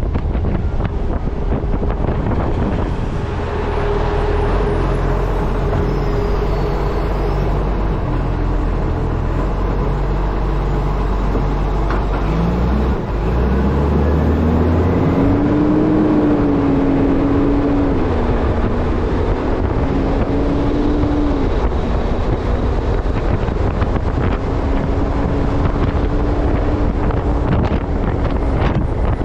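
Wind rushing over a microphone mounted on the front of an Acco refuse truck as it drives, over the low hum of the truck's engine and drivetrain. About twelve seconds in, a tone rises and then holds as a wavering hum.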